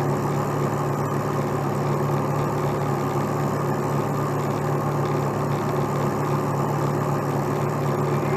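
Heavy truck's diesel engine running steadily at an even, unchanging speed.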